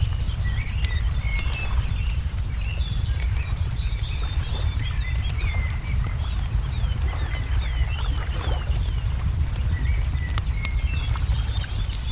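Wood fire crackling with scattered sharp pops over a steady low rumble, while small songbirds chirp throughout, with a quick run of short falling notes around the middle.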